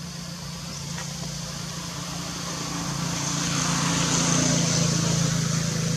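A motor vehicle's engine running close by, growing louder to a peak about four seconds in, then easing off, like a vehicle passing.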